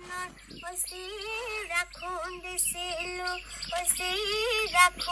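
A woman singing a melody with wavering, ornamented pitch in background music, the start of an Assamese song.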